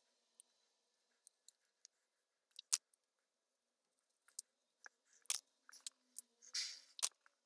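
Faint, small handling noises: scattered clicks and taps, with a brief rustle about a second before the end.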